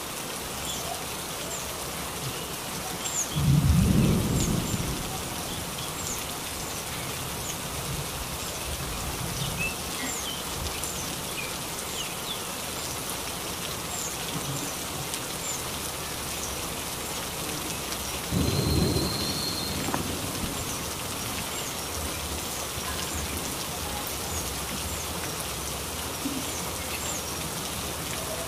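Steady rain falling, with two short low rumbles, the first a few seconds in and the second about two-thirds of the way through.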